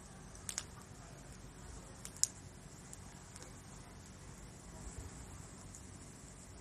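Wood fire crackling in a metal fire grill: a faint steady hiss of burning with a few sharp pops, two about half a second in and two about two seconds in.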